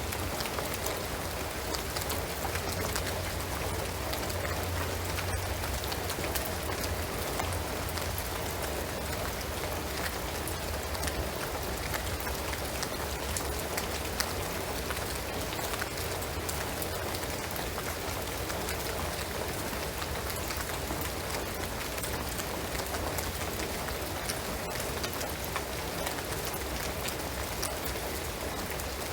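Steady rain falling on a shingled roof and pine trees: a constant patter made of countless small drop ticks, with a low rumble underneath.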